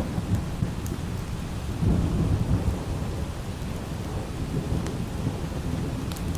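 Low thunder rumbling over steady light rain, the rumble swelling about two seconds in, with a few faint sharp clicks.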